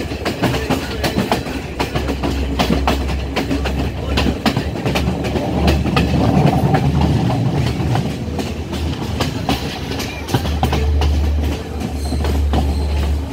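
Class S14 diesel multiple unit running at speed, heard from aboard: the wheels clatter over the rail joints in quick, irregular clicks over a steady low rumble.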